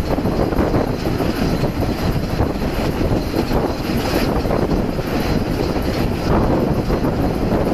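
Narrow-gauge steam train carriage running along the track, heard from an open window: a steady, loud rumble and clatter of wheels and running gear.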